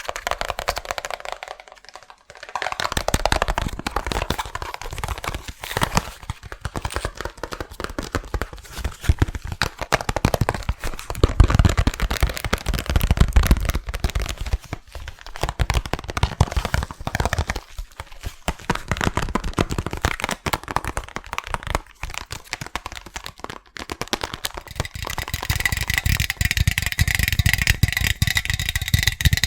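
Fast, hard fingertip and fingernail tapping on assorted objects, a dense run of clicks and knocks with brief pauses. From a few seconds before the end, the object tapped rings on with a steady high tone under the taps.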